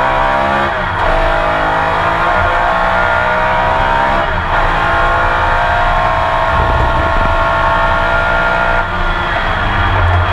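Porsche 911 RSR's flat-six engine heard onboard under hard acceleration. Its pitch climbs steadily through each gear, with upshifts about a second in, around four seconds in and near the end.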